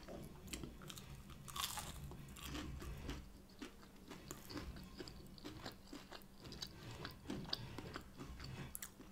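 A person chewing a crispy breaded, air-fried plant-based nugget: faint, irregular crunching and mouth clicks.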